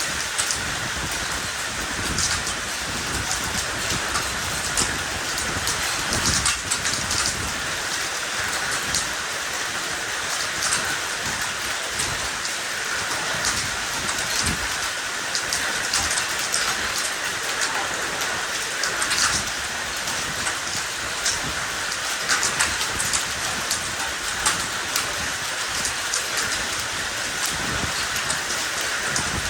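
Heavy downpour of rain and hail from an ice storm falling steadily on and around a patio: a dense, even hiss with many sharp little impacts scattered all through it.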